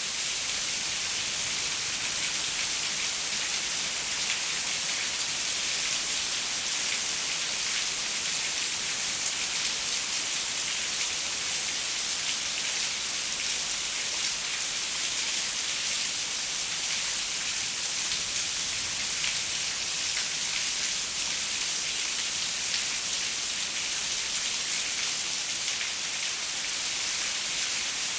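Steady rain pattering on a window pane, a dense even hiss of many small drop impacts with no thunder.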